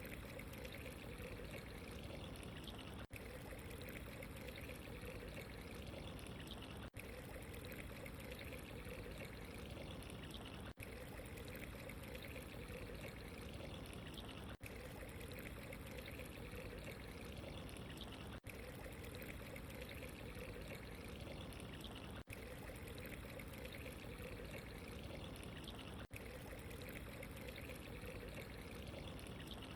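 Steady running water, a continuous pouring trickle. The sound is a short recording looped, dropping out for an instant about every four seconds.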